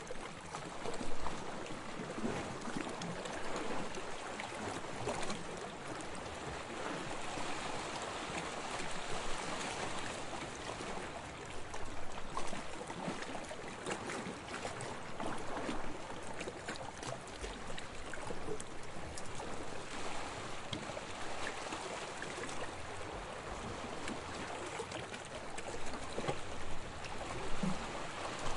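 Small waves lapping on a sandy shore: a steady wash of water with fizzing, crackling foam and gentle swells in loudness, a little louder about a second in and again near the end.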